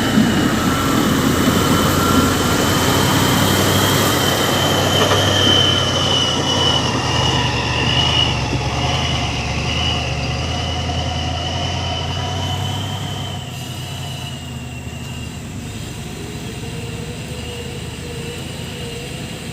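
JCB 3CX backhoe loader's diesel engine running steadily, with a thin high whine that wavers above it. The sound drops somewhat about two-thirds of the way through.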